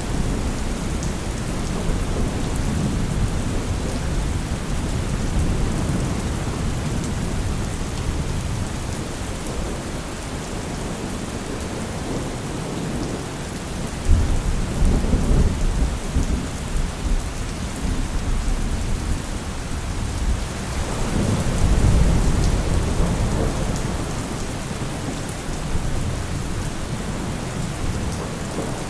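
Steady rain with thunder rumbling low underneath. A sudden peal breaks in about halfway through, and another rumble swells up and fades later on.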